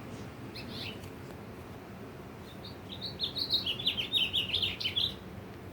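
Finch song: a short chirp about half a second in, then a fast twittering run of quick high notes from about two and a half seconds to five.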